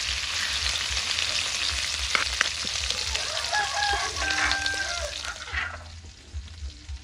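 Kroeung paste of lemongrass, galangal and chili sizzling in hot oil in an aluminium wok, with a spatula stirring and scraping against the metal. The sizzle dies down a little before the end.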